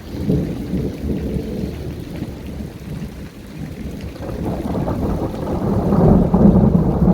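Thunder rumbling continuously over falling rain. A louder rolling peal builds from about four seconds in and peaks near the end.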